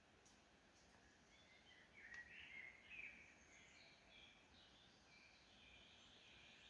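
Faint birdsong in near silence: short chirps, busiest about two to three seconds in, then scattered calls.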